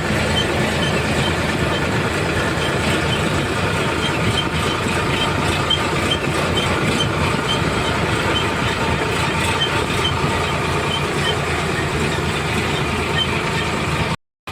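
Sonalika 745 RX tractor's diesel engine running steadily, with a faint, regular high-pitched tick about three times a second. The sound cuts out abruptly for a moment just before the end.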